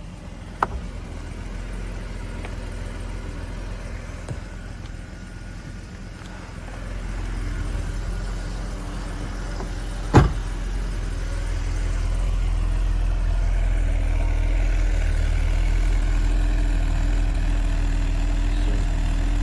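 Mercedes 280SE engine idling steadily, heard from outside the car shortly after a cold start while it warms up. It grows louder about seven seconds in and again about twelve seconds in. One sharp thump about ten seconds in.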